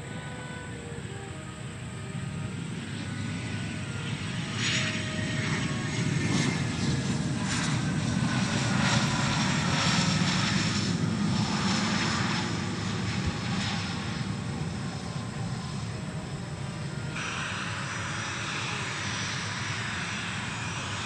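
A-10 Thunderbolt II "Warthog" on approach, its twin turbofan engines growing louder to a peak about halfway through and then fading, with the engine whine falling in pitch as it passes.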